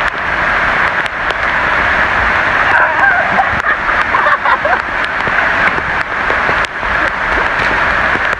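Heavy rain falling: a steady hiss with scattered sharp clicks, and faint shouts of distant voices a few seconds in.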